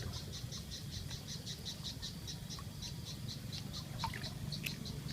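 A frog calling in a steady, even series of short high-pitched chirps, about five a second, over a low steady rumble.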